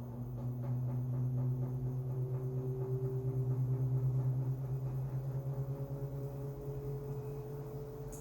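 Samsung Wobble 14 kg top-loading washing machine running with a comforter inside: a low motor hum that pulses rhythmically as the drum turns, with a fainter tone slowly rising in pitch.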